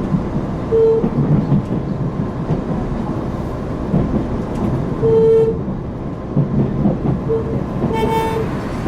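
Inside a JR Hokkaido KiHa 261 series diesel railcar under power: steady engine and running-gear rumble with rail noise. Short high pitched tones sound three times, about a second in, about five seconds in and near the end.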